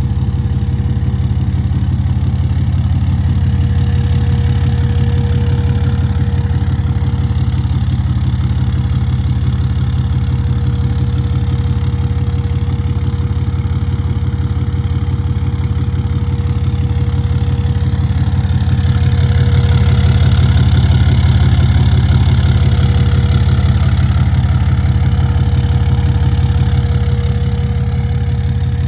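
6.7 Cummins turbo-diesel inline-six idling steadily through a 5-inch straight-pipe exhaust with a muffler, rising slightly in level from about 19 to 27 seconds in.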